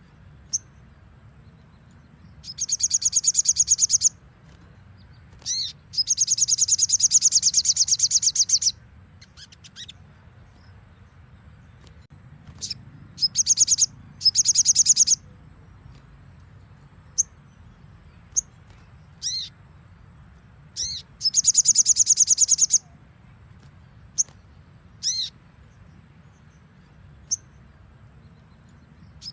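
Sogon (little spiderhunter) singing its rapid 'nembak' song: four fast trains of high, evenly repeated notes, each lasting one and a half to three seconds, broken by single sharp, falling call notes.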